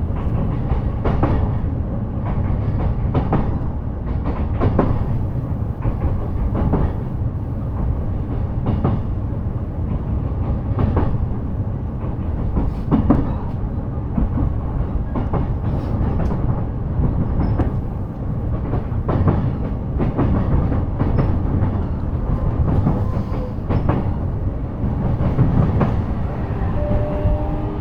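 Inside a JR E233 series electric train running at speed: a steady wheel-and-track rumble with irregular sharp clacks as the wheels pass rail joints. Near the end a rising traction-motor whine comes in as the train takes power again.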